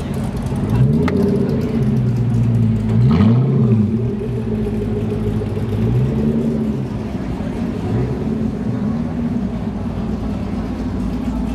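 A car engine revving: its pitch climbs and drops several times in quick succession in the first few seconds, loudest about three seconds in, then swells more gently twice before settling back.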